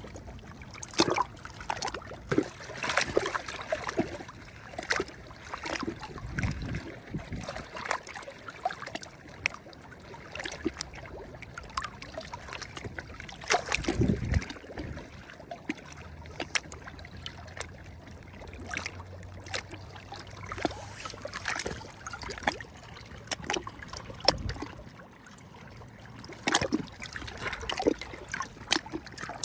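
Small sea waves lapping and splashing at the water's edge, with frequent little slaps and trickles and a few deeper sloshes.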